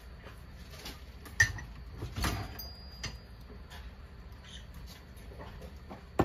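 Monk parakeets nibbling and pecking at food: faint scattered ticks of beaks, with a sharp knock about a second and a half in, a short rustle just after two seconds, and another sharp knock at the end.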